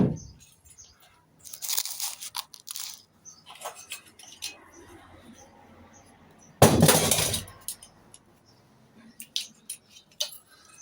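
Metal scrap parts from a stripped microwave clattering as they are handled and dropped: a loud crash at the start, a rattling clatter about two seconds in, another loud crash about seven seconds in, and light clinks between.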